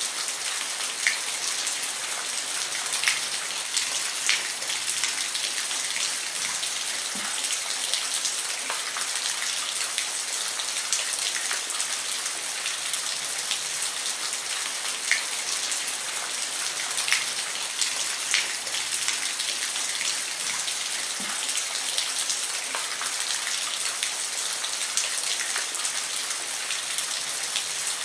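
Steady rain falling on a roof: an even hiss with separate drops ticking now and then.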